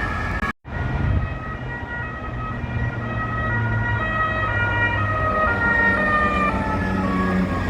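French police two-tone sirens, several sounding at once and stepping between pitches, over engine and road noise. The sound cuts out briefly about half a second in.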